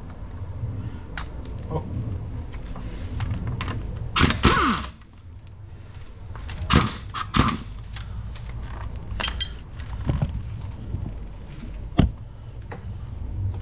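Metal tools clanking and knocking on a car's wheel hub, with a louder clatter about four seconds in and several separate sharp clanks after it.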